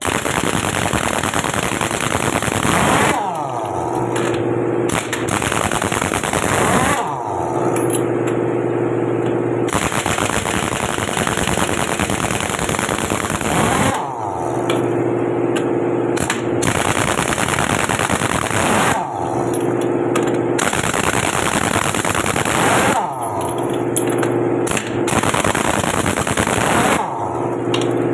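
Impact wrench rattling loose the lug nuts of a truck wheel one after another. Each nut begins with a rising whine as the wrench spins up, and this repeats every few seconds.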